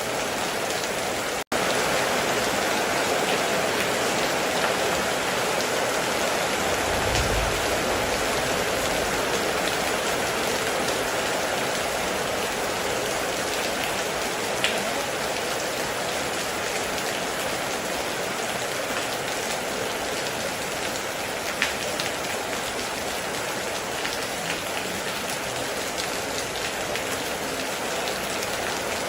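Heavy rain pouring steadily, with a few sharper drop ticks and a brief low rumble about seven seconds in. The sound cuts out completely for an instant about a second and a half in.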